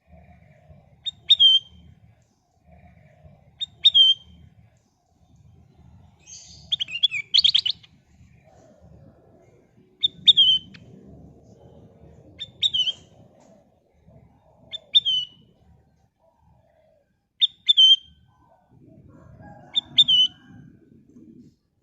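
A kutilang emas bulbul gives short, sharp, down-slurred calls about every two to three seconds. About seven seconds in it breaks into a longer burst of rapid notes.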